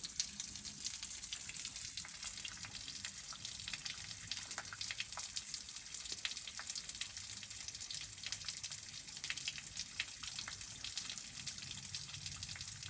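Running water splashing and trickling: a steady high hiss full of fine crackling drops.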